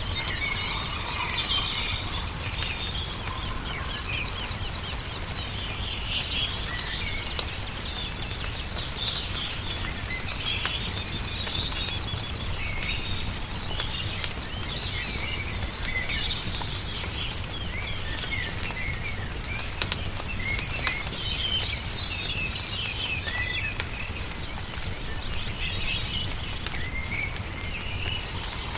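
Small birds chirping and twittering over the sharp pops and crackles of a wood fire, with a steady low rumble underneath.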